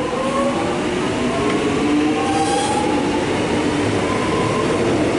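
X'Trapolis electric multiple unit pulling out of the station, its traction motor whine rising slowly in pitch over the steady rumble of the train as it picks up speed.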